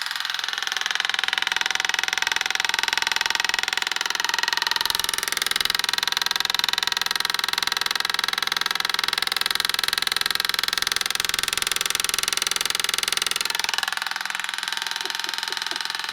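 Washing machine running, with an iPod knocking and rattling around inside the drum in a steady, fast racket. It gets louder about a second in and eases a little near the end.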